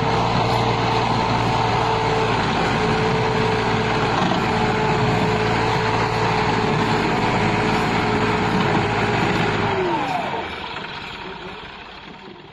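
Massey Ferguson 260 tractor's diesel engine running steadily. About ten seconds in, its pitch drops and the sound dies away.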